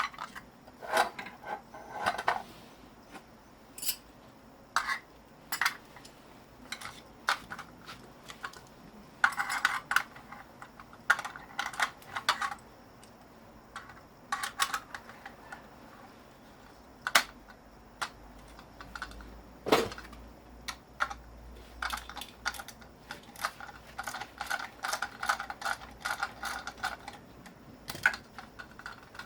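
Irregular clicks and light clinks, some in quick clattering clusters and one sharper knock about twenty seconds in: hand work on scrap metal parts.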